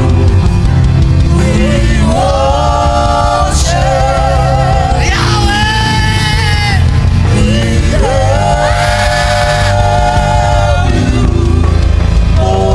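Worship music: a singer holds long, wavering notes one after another over steady instrumental backing.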